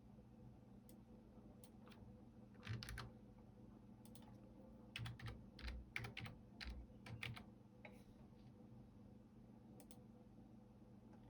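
Computer keyboard typing, faint and uneven: a short run of keystrokes about three seconds in, a quicker flurry in the middle, and a few single key taps otherwise, over a faint steady hum.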